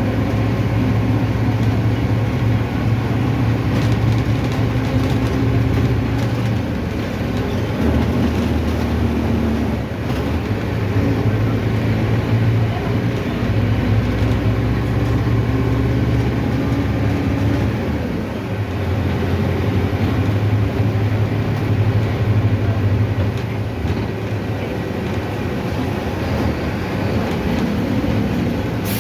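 Mercedes-Benz OF-1519 city bus engine running under way, a steady drone whose pitch drops and rises a few times as the bus changes speed and gear, with road and body noise around it.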